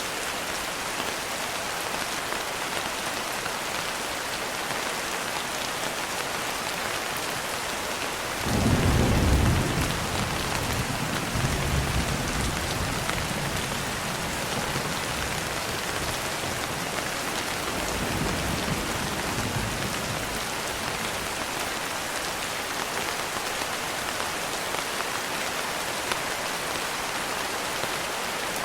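Steady rain hissing, with a clap of thunder about a third of the way in that rumbles on for several seconds, and a fainter roll of thunder later.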